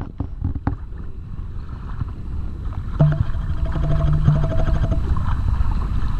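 Helicopter approaching, its low rotor and engine rumble growing louder, with a steady hum for about two seconds in the middle.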